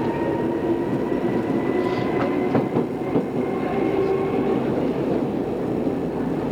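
Odakyu 2600 series electric train running along the line: wheel and rail noise with a steady whine from the drive that drifts slowly in pitch, and a few short clicks of wheels over rail joints about two to three seconds in.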